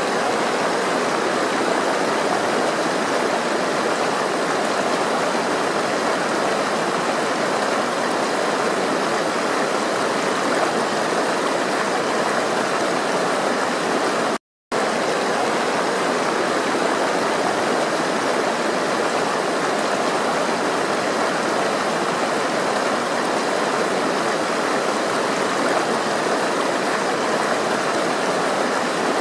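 Steady rush of flowing water, even and unbroken, cutting to silence for a fraction of a second about halfway through.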